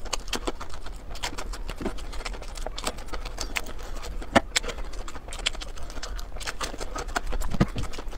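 Close-miked crunching and chewing of fried breaded food, a quick irregular run of crisp crackles and clicks with one louder crunch about four seconds in.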